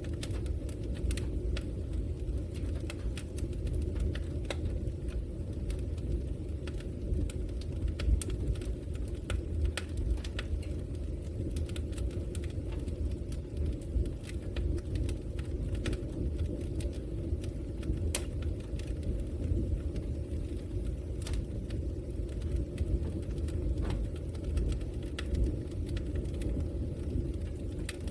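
Logs burning in a fireplace: a steady low rumble of the fire with irregular sharp crackles and pops from the burning wood.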